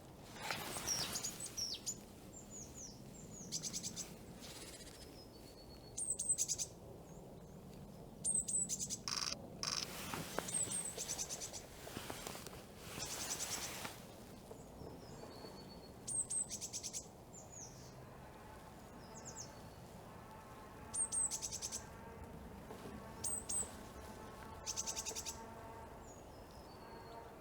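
Small songbirds calling in the trees: many short, high chirps that drop in pitch, with quick trills every few seconds, repeated throughout.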